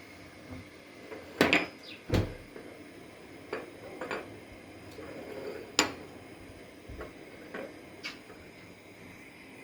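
Kitchen handling sounds: dishes and cupboard doors being moved, giving a series of sharp knocks and clinks. The loudest come about a second and a half in, about two seconds in and about six seconds in.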